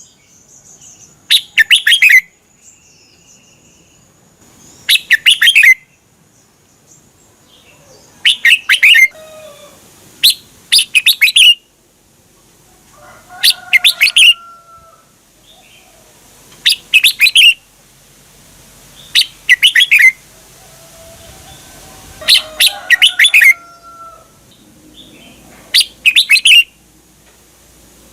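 Red-whiskered bulbul singing: short, loud, bright chirping phrases repeated every two to four seconds, about ten times, with fainter lower whistles between them.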